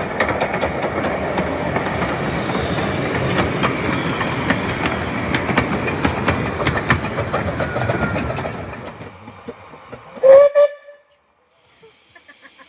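A 15-inch gauge miniature railway train running along, a steady rumble with clicks from the rail joints, fading away about eight seconds in. About ten seconds in the locomotive's whistle gives one short toot, the loudest sound here.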